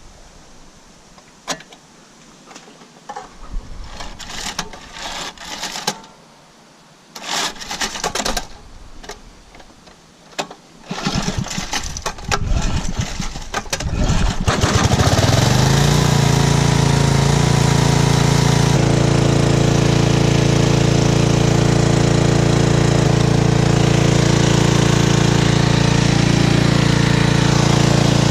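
Handling knocks and short scrapes, then a hammer drill starts about halfway through, rising briefly in pitch, and runs steadily and loudly as it hammers into the concrete wall.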